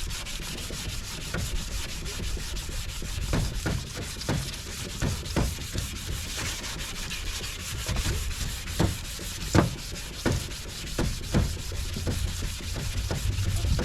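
Sandpaper rubbing over a plastic headlight lens during wet sanding, with irregular small clicks and knocks.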